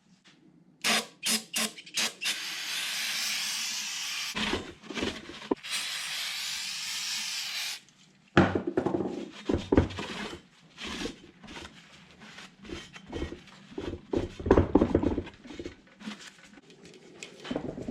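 A few sharp clicks, then a steady spray hiss lasting about five seconds, typical of an aerosol cleaner sprayed into fuel injectors. Irregular clicks and knocks of small metal parts being handled follow.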